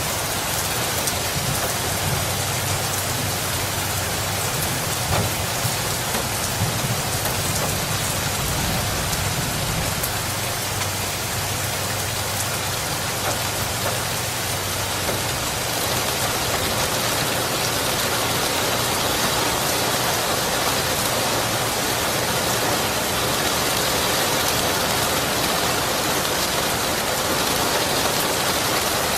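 Steady rain falling on a surface, an even, dense hiss. A low rumble sits underneath during roughly the first third.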